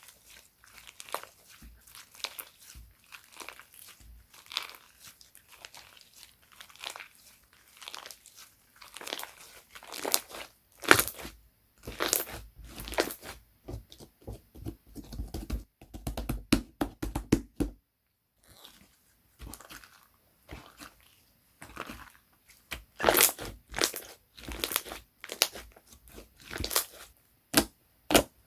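Slime being squeezed, stretched and folded by hand, making a dense run of irregular crackling clicks and pops as trapped air bubbles burst. There is a brief pause about two-thirds of the way through.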